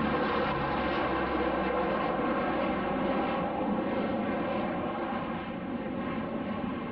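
Aircraft engine drone from a fixed-wing aircraft flying past, a steady pitched hum over a roar that slowly fades toward the end as it moves away.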